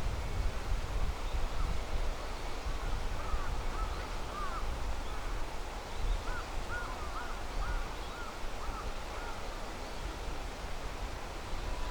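A bird calling in two runs of short, arched notes, two or three a second, over a steady low rumble.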